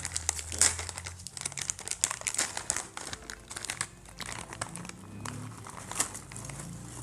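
Plastic chip bags crinkling as they are handled, a run of irregular crackly rustles with a few sharper crinkles.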